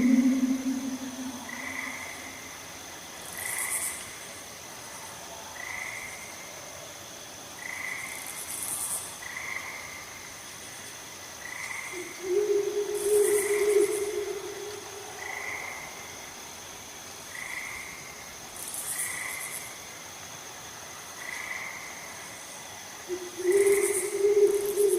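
Night chorus of calling frogs and insects: short chirps repeating about once a second, high buzzing bursts every two to three seconds over a steady high whine. A loud, low, drawn-out call of about three seconds comes about halfway through and again near the end.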